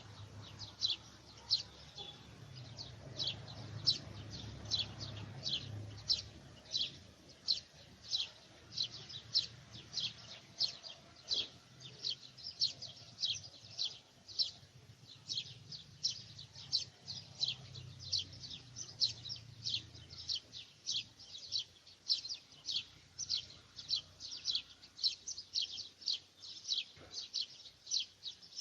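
A bird calling over and over, short high chirps repeated evenly about two to three times a second.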